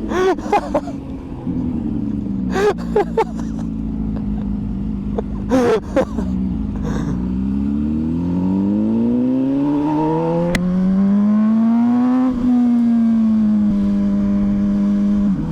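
MV Agusta Superveloce motorcycle engine under way: it runs fairly steady, then accelerates with a long rising pitch through one gear, drops in pitch at the shift about twelve seconds in, and steps down twice more near the end. A few short sharp bursts come in the first six seconds.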